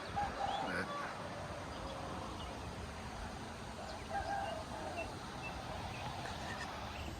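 Wind rushing over the microphone, with a few short, faint bird calls scattered through it, near the start and again about four seconds in.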